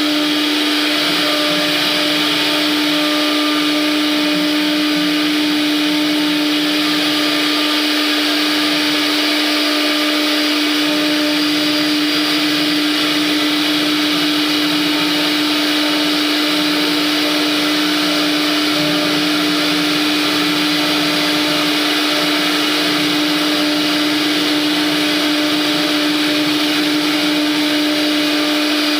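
CNC router spindle running and carving wood: a steady, unbroken motor whine with one constant tone over a dense cutting hiss.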